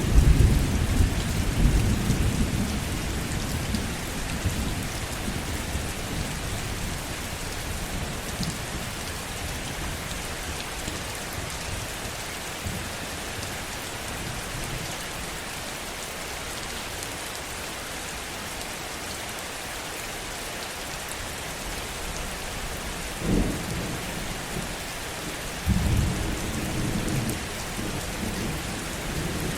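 Heavy rain falling steadily, with thunder. A rumble fades over the first few seconds, two sharper claps come about 23 and 26 seconds in, and more rumbling follows near the end.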